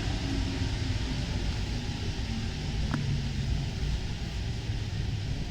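Paris Métro MP 05 rubber-tyred train running between stations: a steady rumble of tyres and traction, with one faint click about three seconds in.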